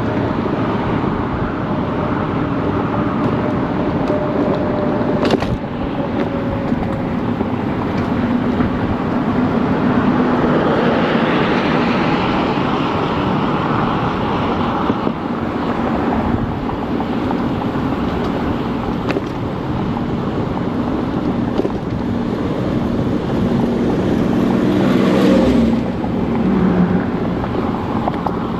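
Riding noise from an ONYX RCR 80v electric moped: wind buffeting the camera microphone and tyre rumble, with a low wavering hum underneath and a single sharp click about five seconds in.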